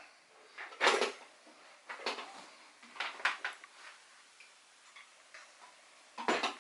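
A handful of separate metallic clicks and light clanks as a handheld spot welder's arms and the steel workpieces are set in place, with the loudest one near the end. No steady welding hum is heard.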